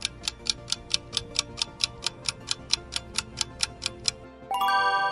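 Quiz countdown-timer sound effect: a clock ticking quickly, about four and a half ticks a second, over soft background music, ending in a short bright chime near the end that marks time up.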